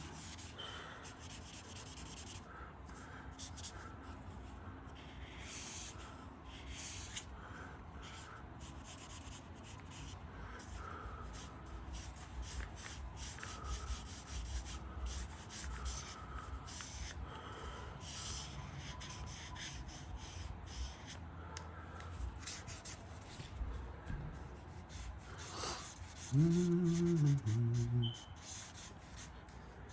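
Marker strokes rubbing and scratching across paper in quick, uneven strokes while a sketch is drawn. Near the end a brief hummed voice sound in two parts.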